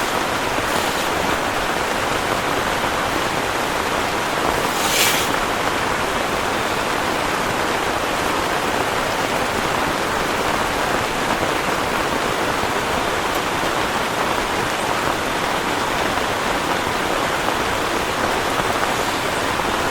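Heavy rain falling steadily in a dense, even hiss, with one brief sharper splash-like hiss about five seconds in.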